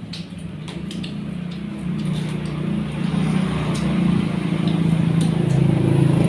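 A motor vehicle's engine running with a steady low hum that grows steadily louder, as if drawing closer.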